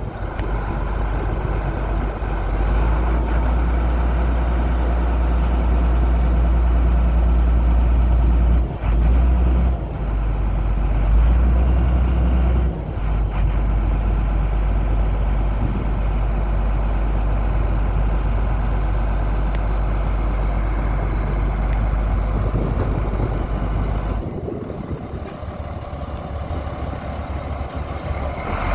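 A 2000 GMC C8500 tow truck's engine running steadily with a heavy low rumble, which thins out about four seconds before the end.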